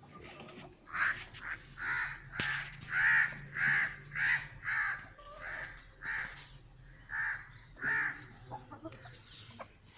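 A crow cawing, a steady series of about a dozen calls, roughly one and a half a second, that stops about eight seconds in.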